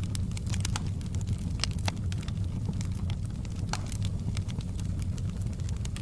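Wood fire burning in a fireplace: a steady low rumble of flame with many sharp, irregular crackles and pops from the burning logs.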